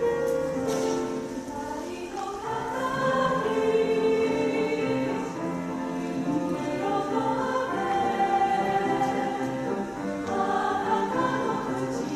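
A choir singing, several voice parts holding long overlapping notes.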